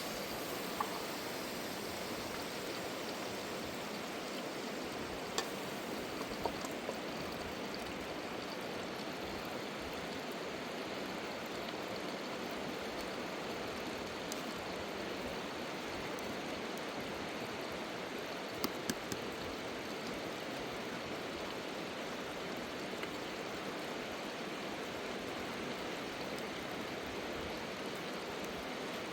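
A river's water rushing, steady and unbroken, with a few sharp clicks or knocks over it.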